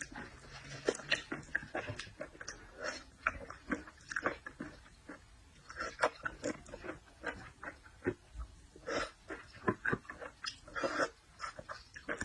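Close-up eating sounds of a person chewing seafood: an irregular run of short, wet mouth smacks and crunches.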